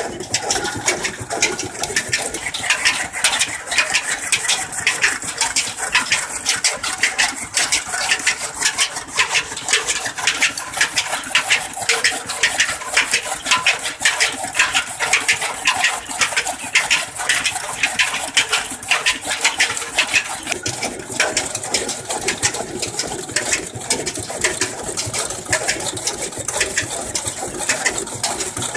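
Old engine of a toka (chaff cutter) machine running at a steady speed, with a rapid, even beat of knocks.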